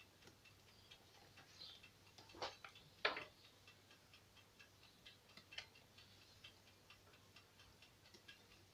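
Faint light clicking and ticking, with two sharper clicks about two and a half and three seconds in.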